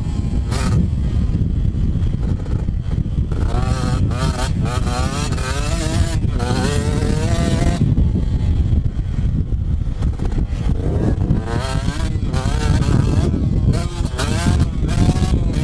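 Two-stroke motocross dirt bike engine revving hard, its pitch climbing and falling again and again as the rider works the throttle, over a heavy low rumble.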